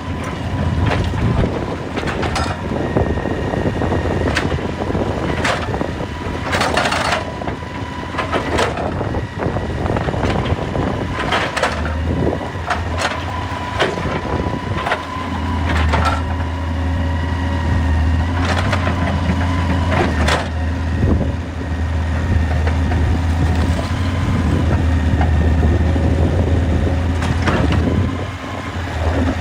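Excavator's diesel engine running and working harder about halfway through, with a thin steady whine over it and repeated sharp knocks and clanks of rock and metal.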